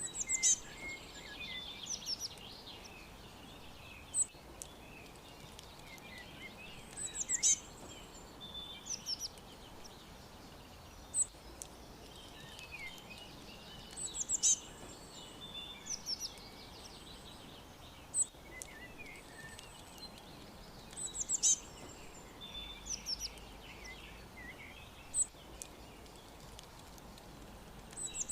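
Several small songbirds chirping and trilling in high, quick phrases, with one loud song phrase recurring about every seven seconds, over a faint steady background hiss.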